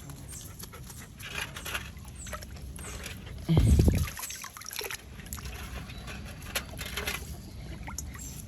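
Water splashing and trickling with scattered small clicks as otters move about in it. There is a loud, short, low thump about three and a half seconds in.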